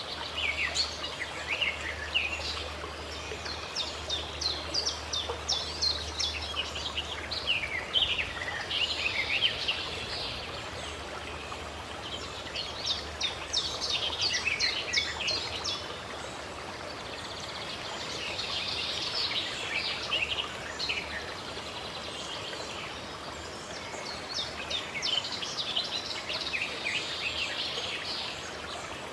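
Small birds chirping and twittering in repeated bouts of quick notes over a steady rush of running water.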